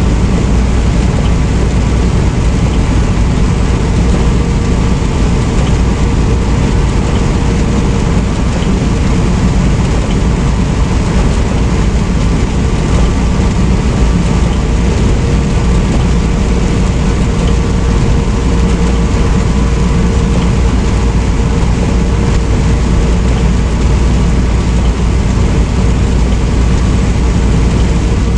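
Semi-truck cab noise while driving: the diesel engine's steady drone with road and tyre noise, unchanging throughout.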